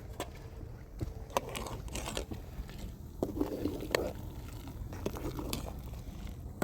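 Light handling noises: scattered small clicks and knocks, with two short stretches of rustling or crunching noise in the first half.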